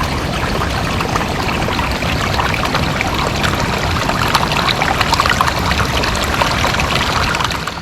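Water pouring and splattering, a dense patter of drops over the steady hiss of heavy rain, ending abruptly near the end.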